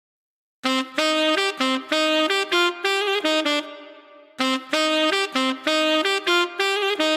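Saxophone playing a quick melodic phrase of short, detached notes, starting about half a second in. The phrase dies away with a reverberant tail, then is played again almost note for note.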